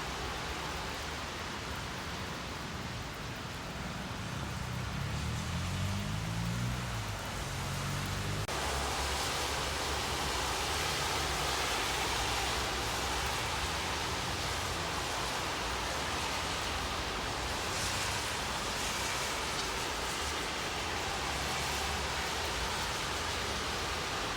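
Steady rain falling, heard as a continuous hiss. About eight and a half seconds in it shifts abruptly to a brighter, slightly louder hiss.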